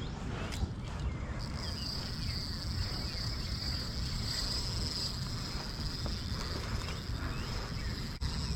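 Insects trilling: a steady, high-pitched buzz that starts about a second and a half in and holds on, over a low rumble.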